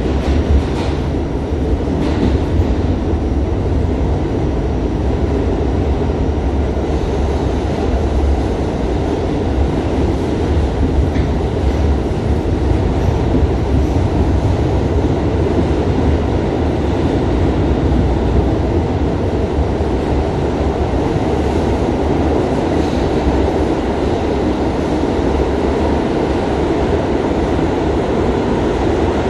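Steady running noise of an R68A subway car, heard from inside the car, with some clicking of the wheels over the rail joints.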